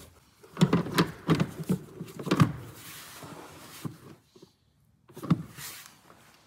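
Plastic cover and fastener parts in a BMW E60 engine bay being worked and pressed into place. A quick run of clicks and knocks is followed by another knock about five seconds in. The twist fastener turns stiffly, which the mechanic puts down to having wedged it slightly when opening it.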